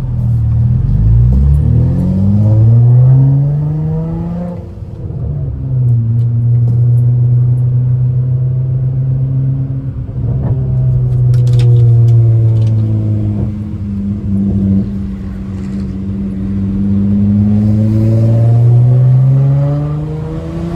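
Straight-piped Honda Accord V6 exhaust under acceleration: the pitch climbs for about four seconds, drops at a gear change, then holds a steady drone while cruising and rises again near the end.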